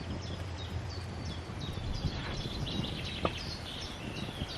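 Small birds chirping and singing, short high notes repeated again and again over a steady outdoor background, with one brief click about three seconds in.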